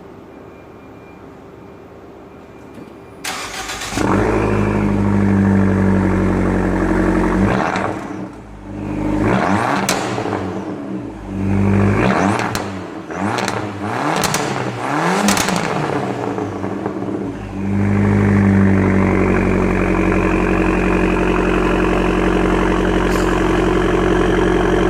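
Abarth 595's turbocharged 1.4-litre four-cylinder engine started about three seconds in, then idling and revved in about five quick rising-and-falling blips before settling back to a steady idle.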